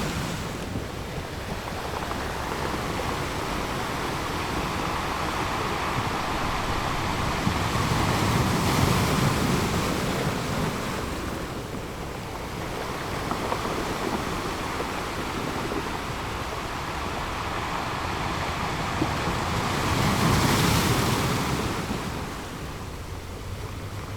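Ocean waves washing in, the rush of surf swelling and easing in long surges about every ten to twelve seconds.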